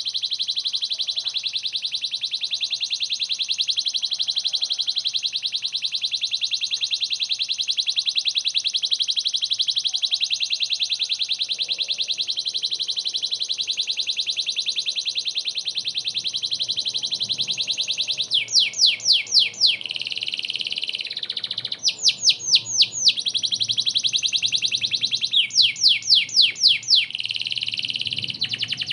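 Domestic canary singing continuously in full song: a long, very fast high trill. From about 18 s in it alternates with loud runs of quick, repeated falling notes.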